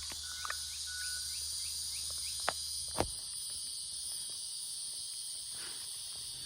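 Steady high-pitched drone of insects, with a few faint short chirps about half a second in and two soft clicks about two and a half and three seconds in.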